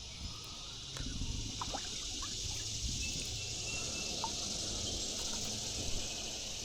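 Creek water trickling, with a steady low rumble that grows about a second in and a few faint short ticks.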